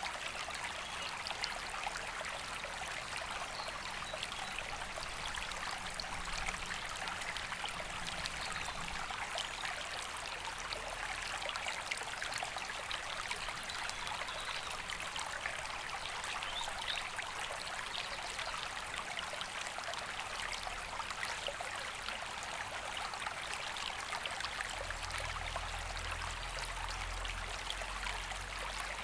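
River water flowing steadily: a constant, even rush of running water with no pauses.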